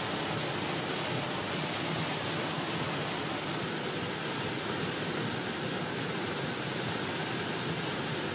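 Heavy rain pouring down, a dense steady hiss with no let-up.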